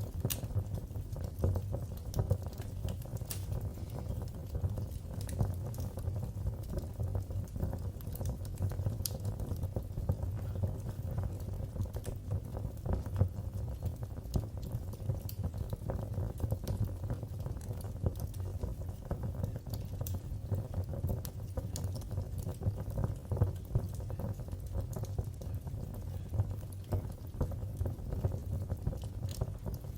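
Wood fire in a fireplace crackling steadily: a low rumble of burning with many irregular sharp pops and snaps.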